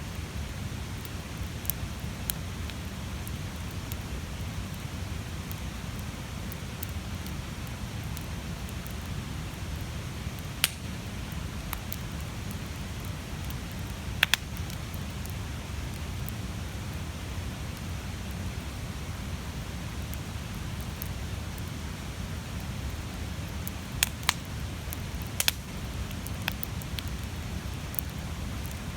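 A big wood campfire burning, with a steady low rush of flame. Sharp crackles and pops of burning wood come every few seconds, some in quick pairs.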